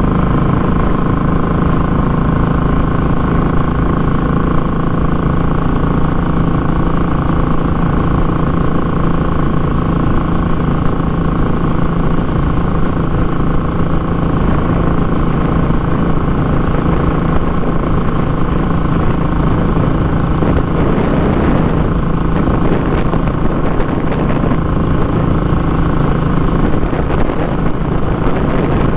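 Royal Enfield Classic 500's single-cylinder engine running through a short muffler at a steady, unchanging pitch, as when cruising at constant speed. A rushing noise rises over it in the last several seconds.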